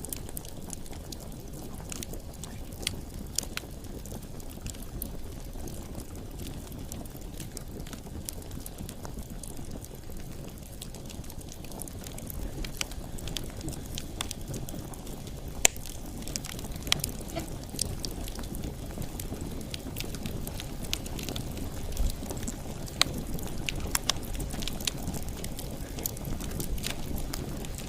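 Wood bonfire burning: a steady low rush of flame with irregular sharp crackles and pops from the burning firewood.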